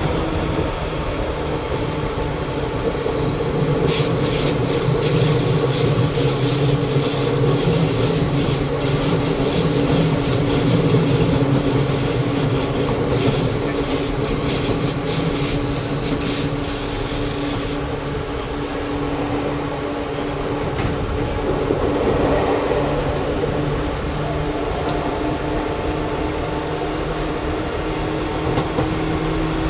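Seibu 2000 series electric train running, heard from inside the carriage: a steady low hum from the running gear with runs of wheel clatter over rail joints, twice.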